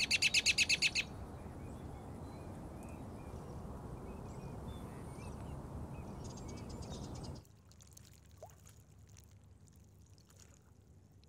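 A songbird's fast, high trill of about ten notes a second, followed by a steady low rushing noise with faint bird chirps over it. The rushing noise cuts off suddenly about seven seconds in, leaving only a faint hiss and a single soft chirp.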